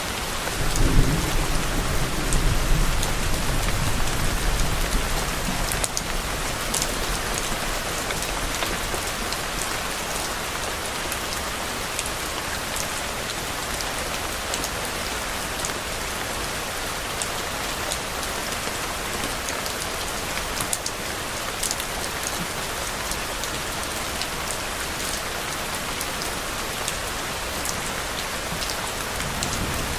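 Steady rain falling and pattering on a surface, with sharp ticks of individual drops. A low rumble of distant thunder starts about a second in and fades out over the next few seconds.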